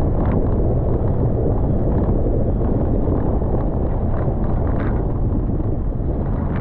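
Wind buffeting the microphone of a roof-mounted camera on a moving Toyota FJ Cruiser, over a steady low rumble of road and engine noise.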